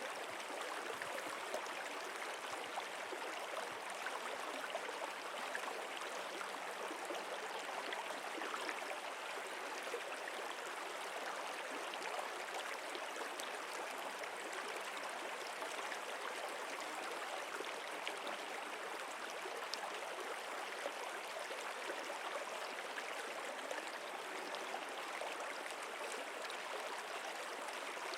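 Stream water flowing steadily, an even rushing and gurgling without breaks.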